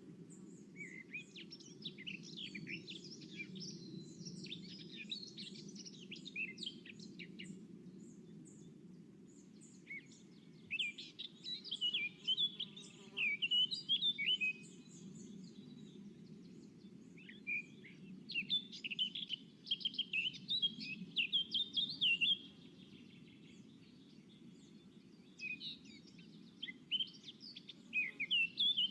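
Songbirds singing in bouts of rapid, high chirps and twittering trills, with pauses of a few seconds between bouts, over a steady low hum.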